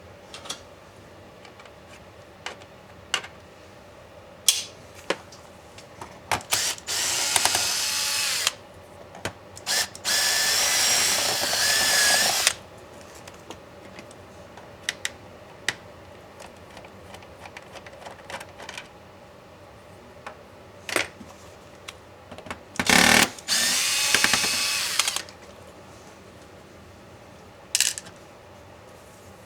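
A small electric screwdriver backs out laptop case screws. It runs in three bursts of about two seconds each, with light clicks and taps between the runs.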